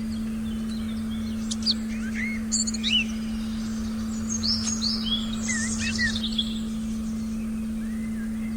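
Forest ambience with several small birds chirping and calling, busiest from about one and a half to six and a half seconds in, over a steady, unchanging low electronic tone.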